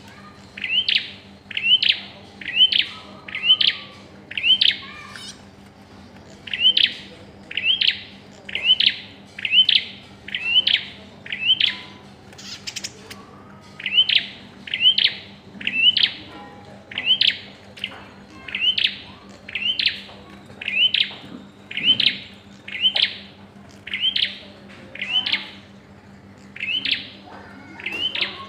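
A prinia (prenjak) calling: a short, sharp rising chirp repeated about once a second in a long run, with a couple of brief pauses. A faint steady hum lies underneath.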